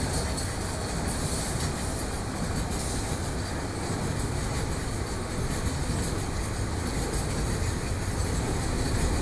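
Train running on its rails: a steady, continuous noise of wheels and cars on the track.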